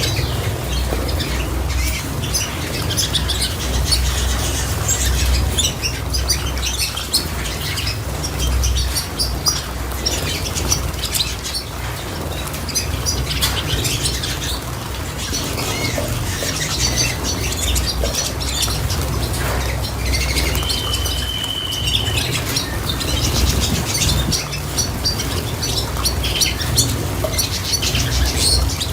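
Small pet birds chirping and calling continuously, with many short rapid chirps and one longer held whistle about two-thirds of the way through, over a steady low rumble.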